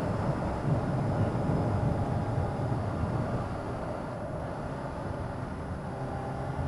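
Motorcycle engine running steadily on the move, its sound easing off a little about halfway through.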